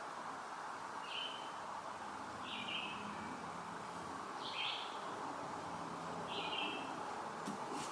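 A bird calling repeatedly in the woods: five short, high calls, one every second or two, over a steady background hiss. A brief click near the end.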